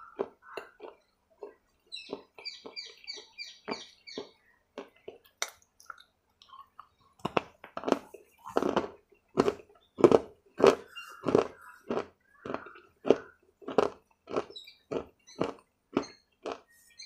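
Close-miked chewing of a hard, crunchy black food: a run of sharp crunches that start sparse, then come about two a second and louder from about seven seconds in.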